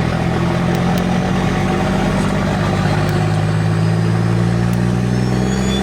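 Truck engine idling, a steady low drone that holds even without revving.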